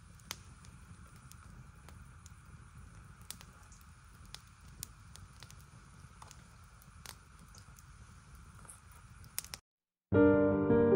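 Wood fire crackling quietly, with scattered sharp pops and snaps over a low, steady rush of flame.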